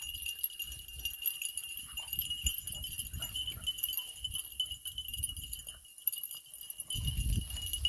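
Beagles moving around close by, their collar tags jingling and feet scuffing and rustling, with louder rustling near the end, over a steady high-pitched hum in the background.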